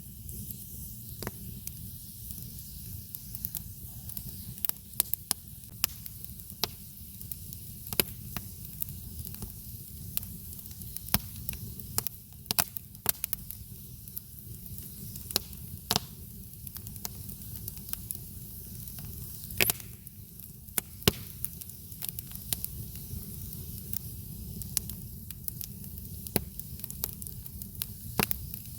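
Campfire burning, with a steady low rumble and hiss and frequent irregular crackles and pops of burning wood.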